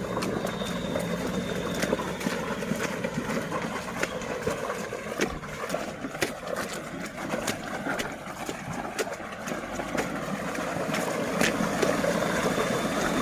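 A 4x4 pickup truck's engine running as it drives on a muddy road, with scattered sharp clicks and knocks over the steady engine and road noise.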